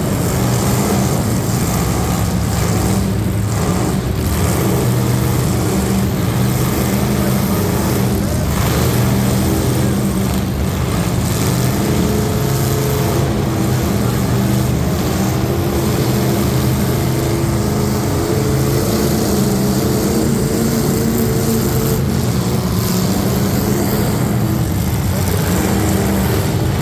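Truck engine running loudly and steadily, its pitch wavering slightly but never rising into a full rev.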